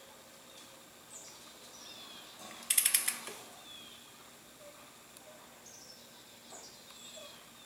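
Hand ratchet wrench clicking in one quick burst of metallic ratchet strokes about three seconds in. Faint bird chirps sound in the background.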